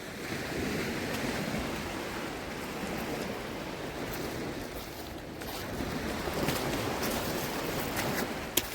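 Shallow sea water washing and sloshing, with wind on the microphone. The sound swells and eases, and there is a short sharp click near the end.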